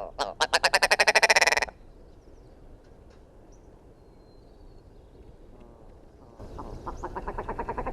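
An animal's fast rattling, croak-like call, about fourteen pulses a second, loud for about a second and a half near the start. After a pause, a second, fainter rattling call begins near the end.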